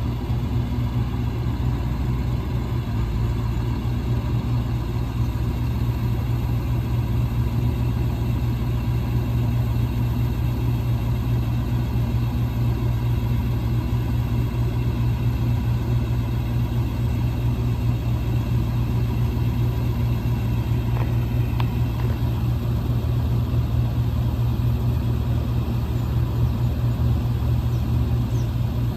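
1999 International 4700's 7.3-litre International V8 diesel engine idling steadily with a low, even rumble.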